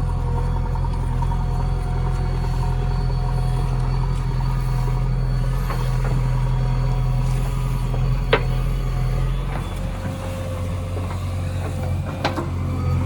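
JCB backhoe loader's diesel engine running steadily, with a faint steady whine above its hum; the engine note shifts about ten seconds in. Two short sharp knocks come in the second half.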